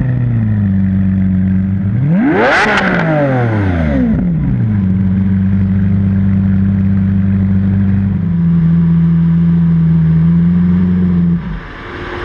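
Lamborghini Aventador's 6.5-litre V12 with a factory racing exhaust idling, with one sharp rev about two seconds in that rises quickly and falls back. The idle cuts off abruptly near the end.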